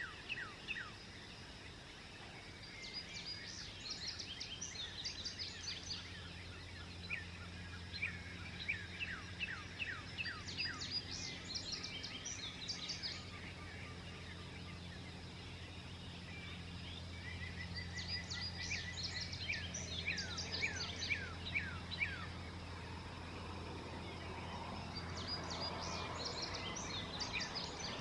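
Songbird singing at dawn: bursts of quick, high, downward-sweeping notes repeated about every seven seconds, over a steady low hum.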